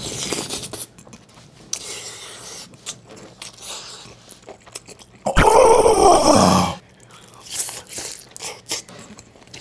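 Close-miked chewing and crunching of food: a mouthful of fried rice, then a fried sausage-and-rice-cake skewer. About five seconds in, a loud sound with a falling pitch lasts about a second and a half.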